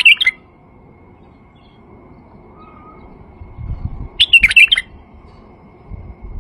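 White-eared bulbul singing: a short warbling phrase right at the start and another about four seconds in. A low rumble comes just before the second phrase and again near the end.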